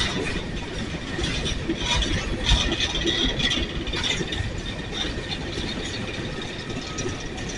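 Empty coal cars rolling slowly past on yard track, wheels and car bodies rattling and clanking, with a high metallic squeal from about two and a half to three and a half seconds in.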